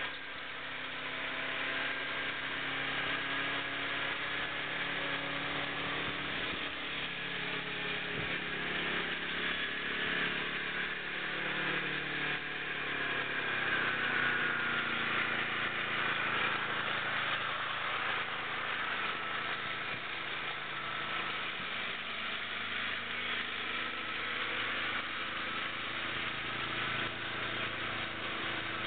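Homemade lawn tractor's small engine running, its note sliding up and down in pitch as the revs change, with a high whine above it that rises and falls too.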